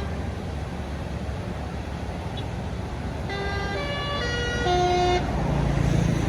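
Hino truck's basuri, a multi-tone musical horn, playing a short tune of stepped notes about three seconds in, over the low rumble of the truck's engine. The engine rumble grows louder near the end.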